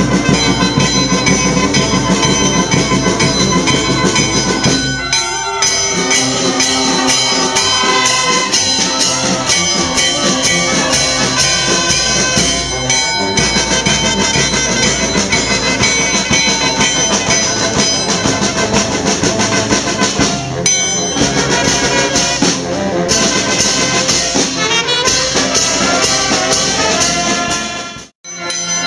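Brass band playing, trumpets and trombones to the fore, breaking off sharply for a moment near the end.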